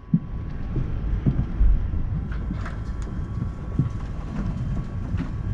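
Cabin noise inside an Airbus A380 on the ground: a steady low rumble with irregular bumps and jolts, a few light clicks, and a faint steady hum above it.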